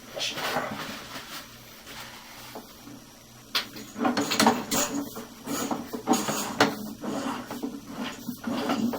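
Sewer inspection camera's push cable being fed down a drain line, with irregular scraping and knocking that grows busier and louder about four seconds in.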